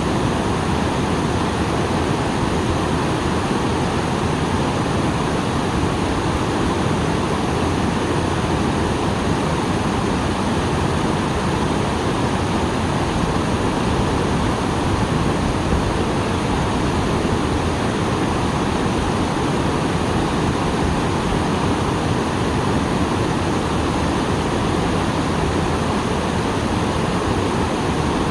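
Small waterfall pouring steadily, running full after rain, a loud continuous rush of falling water.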